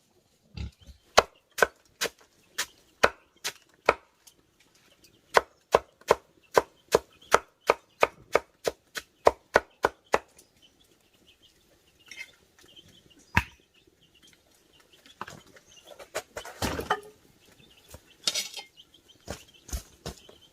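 Rhythmic chopping, about two to three strokes a second for the first ten seconds, with a brief pause partway through. After that come a few scattered knocks and rustling.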